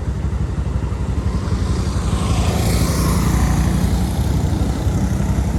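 Motorcycle engine running steadily while riding, with a rush of road and wind noise that rises and fades about halfway through.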